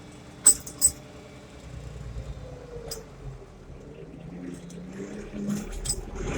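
International Harvester 1086 tractor's six-cylinder diesel engine running under load, its pitch rising as it picks up revs from about four seconds in. Two sharp clicks about half a second in, with a fainter click or two later.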